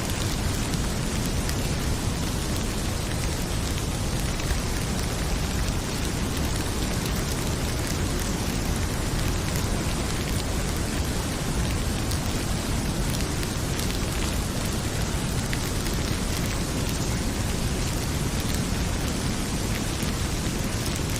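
Heavy rain pouring steadily, with scattered faint crackles and pops from a fireplace.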